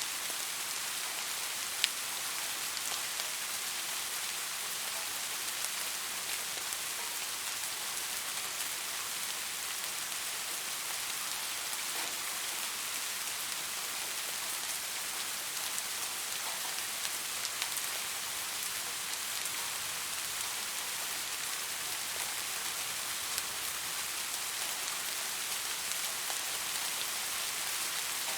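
Steady rain falling, an even hiss with scattered drop ticks and one sharper drip about two seconds in.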